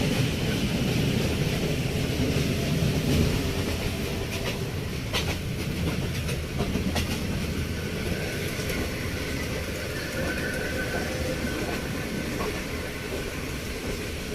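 Moving passenger train heard from inside the coach: a steady low rumble of the wheels running on the track, with a few scattered sharp clicks.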